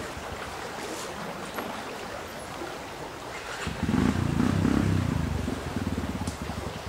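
125 cc enduro motorcycle engine running, with a low, pulsing note that gets much louder about four seconds in, then eases off.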